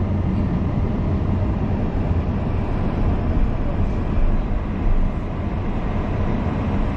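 Steady low rumble of a moving vehicle, with an even hum running under it and no sudden events.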